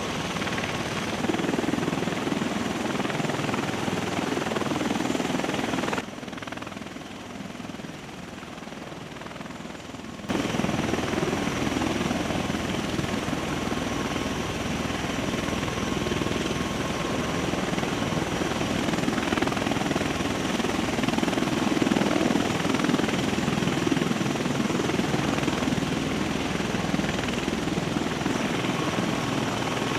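Large military rotorcraft running, a steady heavy rotor and turbine noise. It drops abruptly about six seconds in and comes back just as suddenly about four seconds later.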